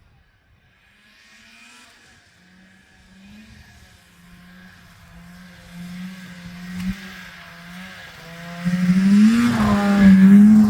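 Snowmobile engine running and coming closer, growing steadily louder and loudest near the end, its pitch wavering slightly with the throttle.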